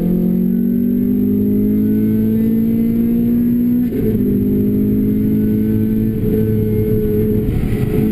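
Renault Clio RS engine with a Bastuck exhaust accelerating, its note climbing steadily; about four seconds in it breaks briefly and drops in pitch at an upshift, then climbs again, with another shift right at the end.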